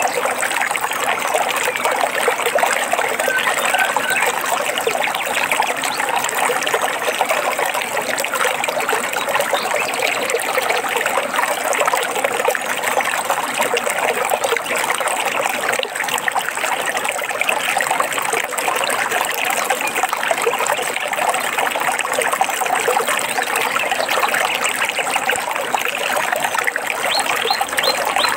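A small stream or brook trickling steadily, with a few faint bird chirps heard over it now and then.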